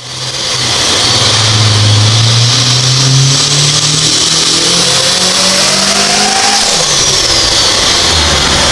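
Supercharged Honda Civic Si four-cylinder engine making a full-throttle dyno pull through stock catalytic converters and exhaust, its pitch climbing steadily with revs. About seven seconds in the throttle closes and the rising note breaks off as the engine winds down.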